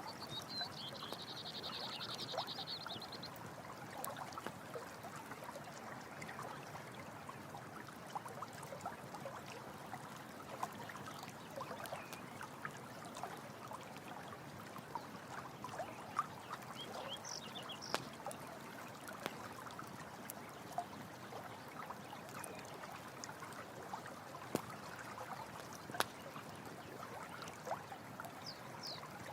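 Running stream water with a steady rushing flow, over which a campfire crackles and pops in scattered sharp snaps. A night animal's high pulsed trill sounds for the first few seconds, with a few faint short high calls later.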